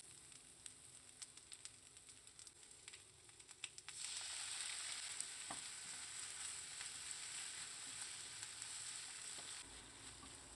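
Vegan pork belly, dried tofu and green pepper frying in a pan, with light scattered crackles. About four seconds in, the sizzle jumps to a much louder, steady hiss as the food and bean sauces are stir-fried together.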